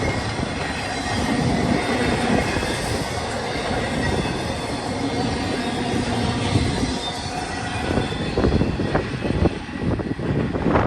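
Freight train of empty intermodal cars rolling past, steel wheels on rail with faint flange squeal. From about eight seconds in the rolling noise thins and gusts of wind buffet the microphone.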